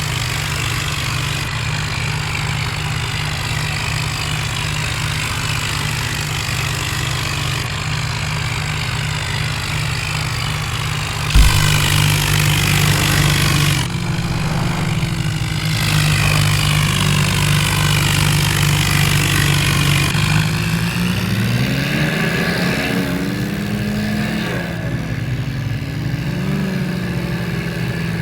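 Diesel tractor engine running steadily under heavy towing load. It gets louder after a sharp knock about eleven seconds in, then revs up with a rising pitch in the last few seconds.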